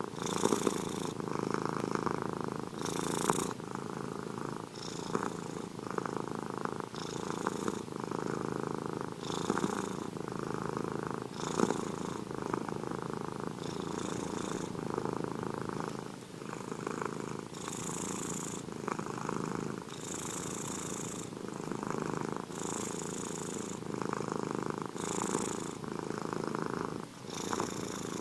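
Domestic cat purring close up, a continuous low rumble that swells and eases with each breath in and out, about every one to two seconds.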